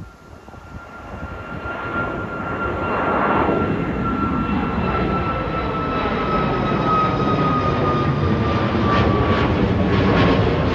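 Departing airliner's engines growing louder as it takes off and passes, a steady whine slowly falling in pitch over the rumble.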